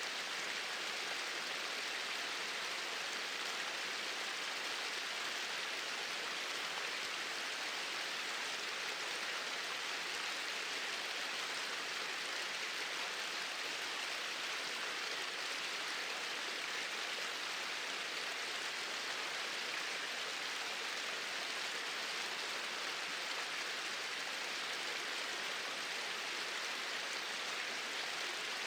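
Small waterfalls pouring steadily into a stream, an even rushing hiss with no change.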